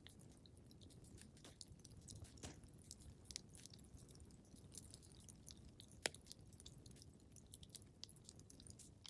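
Faint wood fire crackling in a fireplace: scattered small snaps and pops over a low rumble, with one sharper pop about six seconds in.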